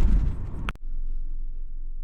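Loud road and wind noise from a moving vehicle that cuts off abruptly under a second in, followed by a quieter steady low rumble.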